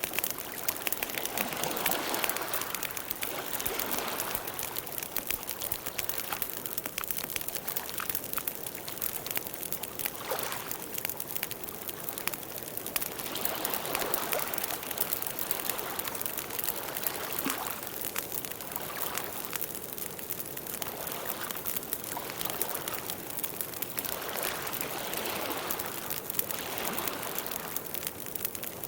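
Campfire burning: a steady run of small crackles and pops over a soft rushing of the flames that swells and fades every few seconds.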